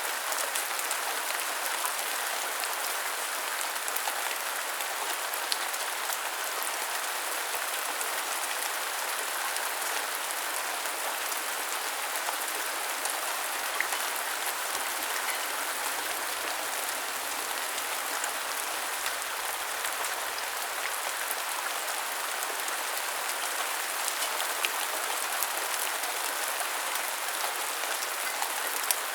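Steady rain falling, an even hiss with a few sharper ticks of single drops landing close by.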